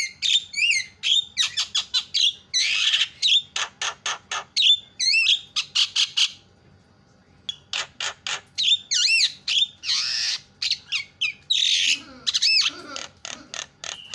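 Javan myna singing: a fast, loud chatter of clicks and whistled notes sliding up and down, broken by harsh squawks. It pauses for about a second around the middle, then starts again.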